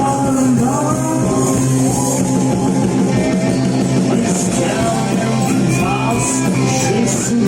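Live rock band playing a song with singing over it.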